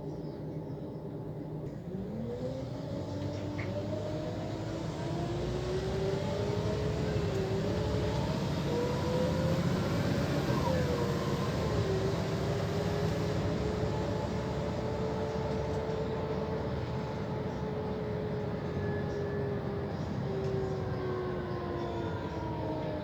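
Scania CL94UB city bus pulling away, its ZF automatic gearbox whining. The whine rises in pitch about two seconds in and levels off, with a short dip and recovery around the middle, then slowly falls near the end as the bus eases off.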